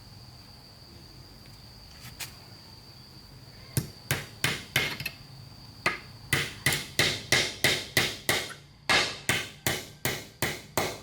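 Hammer blows on wood: a few scattered strikes, then a quick even run of about three blows a second with a brief pause partway through.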